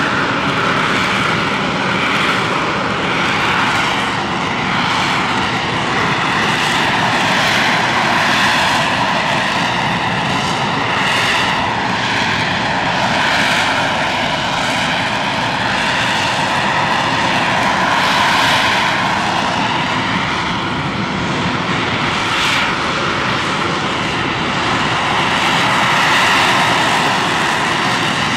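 AV-8B Harrier II Plus jet, its Rolls-Royce Pegasus vectored-thrust turbofan running steadily at high power: loud continuous jet noise with whining tones that waver slowly up and down.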